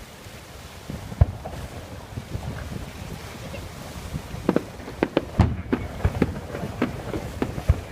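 Hermanos Ferrández fireworks display going off: one heavy boom about a second in, then from about halfway a quickening run of sharp bangs and cracks, several a second, over a low rumble.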